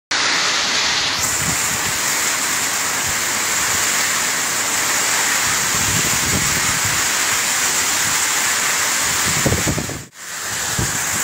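Heavy rain pouring down, a steady, dense hiss, with now and then a low rumble. The sound dips out for a moment about ten seconds in.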